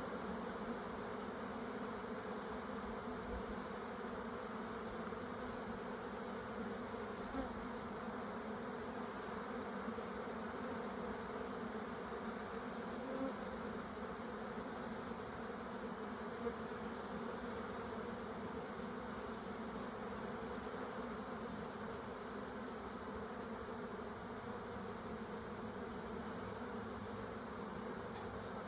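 Honeybees buzzing at the hive, a steady drone of many wings with no breaks.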